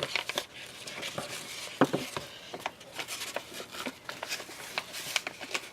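Small handling noises of craft materials being worked by hand: scattered light clicks, taps and rustles of paper, tape and string, with a short squeak-like sound a little under two seconds in.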